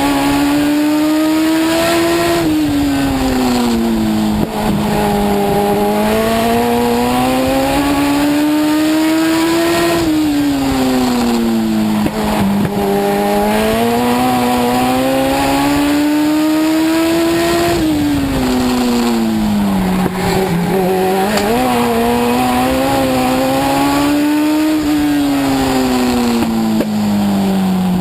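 Legend race car's Yamaha four-cylinder motorcycle engine at racing speed on a short oval. Its pitch climbs steadily along each straight and drops off into each turn, about four times.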